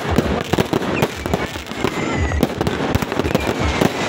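Fireworks display: a dense, continuous stream of bangs and crackling pops from many shells overlapping, with faint falling whistles.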